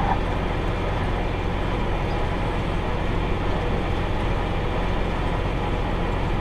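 Tractor engine running steadily with an even low drone while pulling a round baler through hay.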